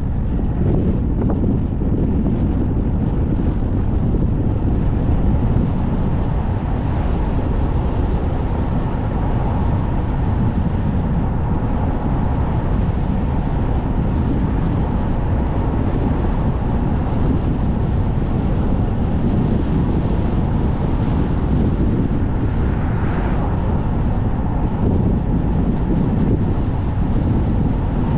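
Strong gusty wind buffeting the microphone of a moving car, a loud, steady low rumble mixed with road noise.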